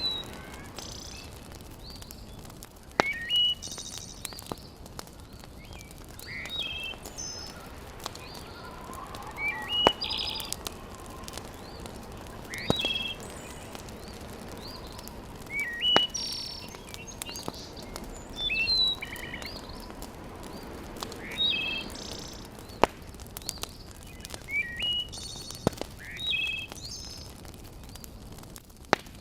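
Birds singing a short whistled phrase again and again, about every three seconds, over a steady background hiss. A wood fire in a fireplace gives a few sharp, separate pops.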